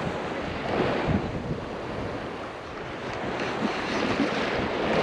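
Wind buffeting the microphone over shallow surf washing on the shore, a steady noisy rush that grows a little louder near the end.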